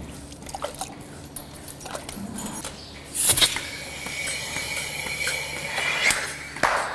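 Milking-machine vacuum line in a cowshed: a sudden sharp hiss of air about three seconds in, as a hose is coupled at the pipeline, then a steady high whistling hiss for about three seconds, among light knocks of metal fittings.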